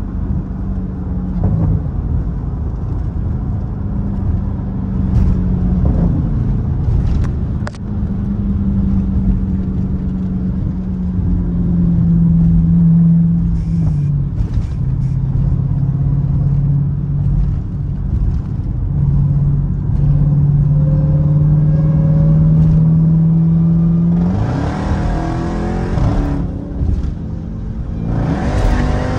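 Car engine running at a steady pitch that shifts a few times, then revving up hard twice near the end.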